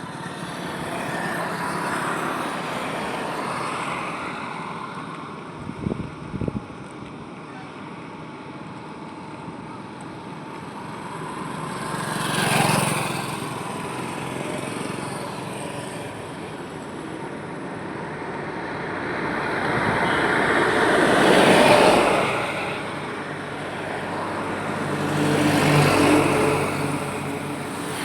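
Highway traffic: vehicles passing one after another, each rising and fading with tyre and engine noise, the loudest pass about three quarters of the way through, with others near the middle and near the end. A few brief low thumps come about a fifth of the way in.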